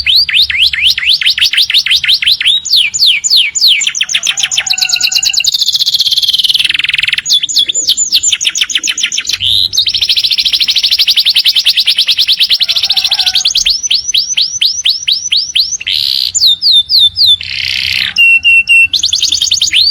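Domestic canary singing a long, loud song of rapid trills: runs of fast repeated sweeping notes broken by buzzing rolls, without a pause.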